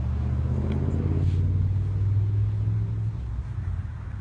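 A car's engine running close by, a low steady sound that swells about a second in and eases off near the end.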